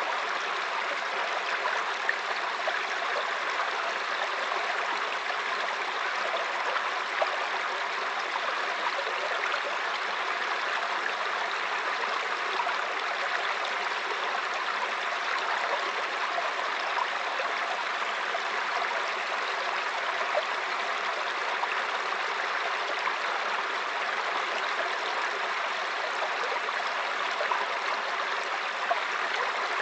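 A stream flowing steadily over stones, an even rushing babble with small irregular splashes.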